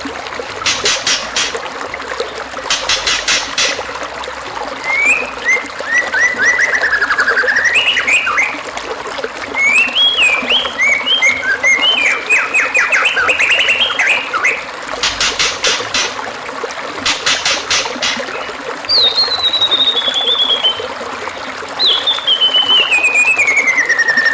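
Recorded songbird song with several kinds of calls: short buzzy rattles, runs of whistled and chirping notes, and two falling trills near the end. A steady trickle of running water lies underneath.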